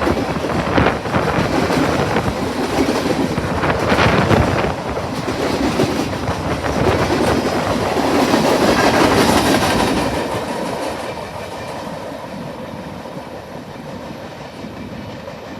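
Freight cars of a BNSF manifest train rolling past, wheels clattering over the rail joints. About ten seconds in the noise begins to fade as the train moves away.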